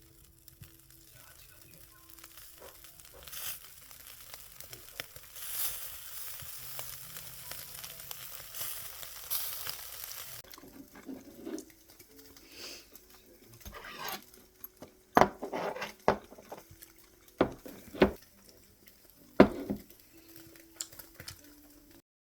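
Pork neck sizzling over charcoal on a wire grill, a steady hiss of fat that swells over the first ten seconds. After that comes a run of sharp clacks and knocks, about half a dozen, which are the loudest sounds.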